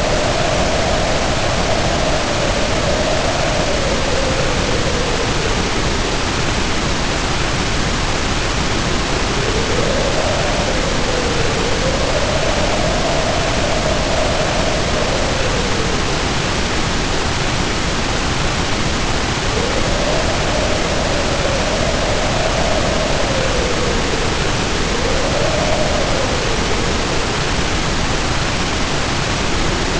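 Heavy rain pouring down as a steady loud hiss, with wind howling over it in slow rising and falling moans that die away briefly twice.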